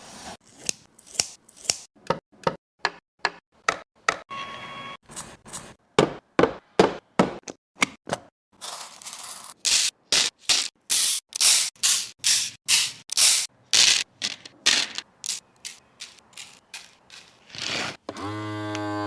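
Plastic containers and food packaging being handled and set in place: a quick series of clicks, taps and rubbing scrapes, with a short squeak near the end.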